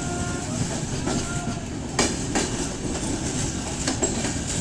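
Train running along the track: a steady rumble with a few sharp clacks of wheels over rail joints, about halfway through and again near the end.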